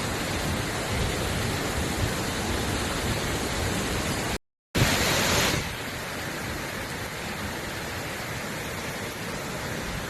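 Heavy rain falling, a steady hiss. It cuts out briefly about four and a half seconds in and comes back somewhat quieter.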